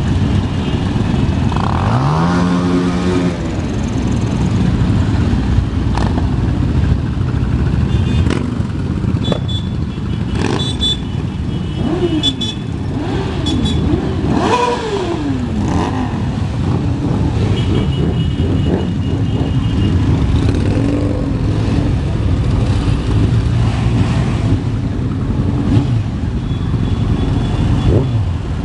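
Many motorcycle engines running together as a parade of bikes passes, with individual bikes revving up and down over the steady engine noise.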